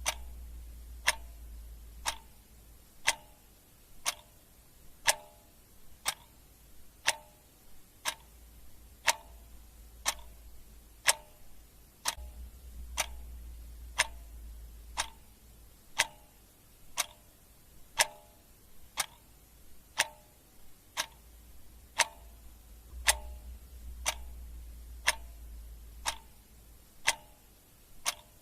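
Ticking clock sound effect: steady, even mechanical ticks, the loudest about once a second.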